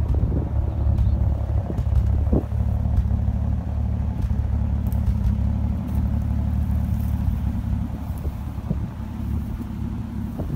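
1949 Delahaye 148 L's straight-six engine idling steadily with a low, even rumble.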